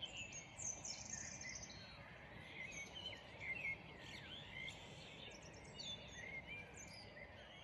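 Garden birds chirping and singing, with many short twittering phrases and whistles overlapping, over a steady low background noise.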